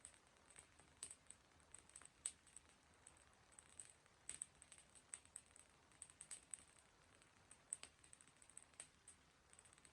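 Wood campfire crackling: faint, irregular sharp pops and snaps, sometimes several close together.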